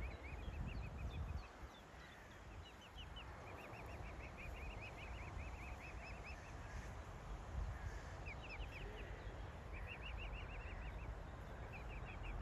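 Birds calling: short bursts of rapid, high chirps repeated every few seconds, over a low rumble.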